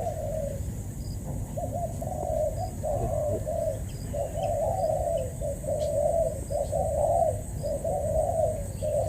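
Spotted doves cooing in a quick run of repeated short phrases with brief gaps between them, with faint chirps of small birds higher up.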